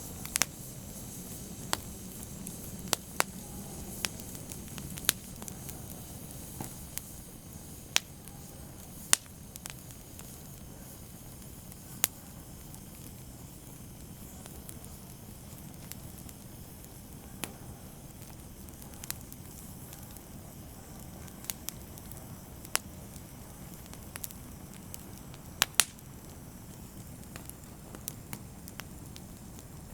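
Fireplace fire crackling: a steady low rush of flame with sharp pops at irregular intervals, a few of them loud, including a quick double pop a little before the end.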